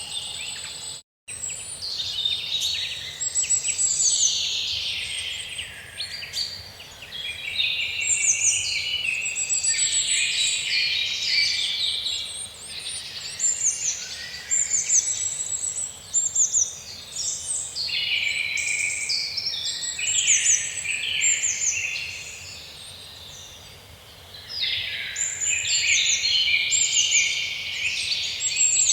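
Songbirds singing, many overlapping high chirping phrases, with a brief cut to silence about a second in and a quieter lull about two-thirds of the way through.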